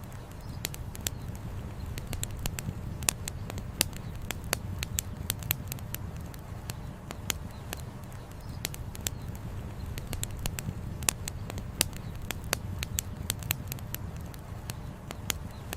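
Wood campfire crackling, with frequent irregular sharp pops and snaps from the burning firewood over a steady low rumble.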